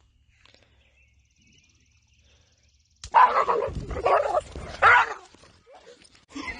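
Dog yelping in a quick run of loud cries, starting suddenly about three seconds in, after being shocked by an electric fence.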